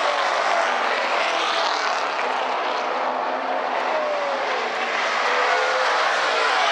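Super late model race cars' V8 engines running on the oval, several engine pitches falling as cars pass and ease off just after the checkered flag.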